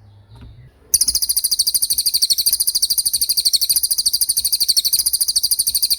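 A cililin songbird singing a long, very fast rolling trill of rapid, evenly repeated very high notes. It starts about a second in and carries on without a break.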